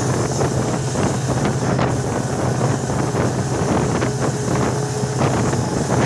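Passenger train running at speed, heard from beside its coaches: the steady running noise of wheels on the track, with wind rushing over the microphone.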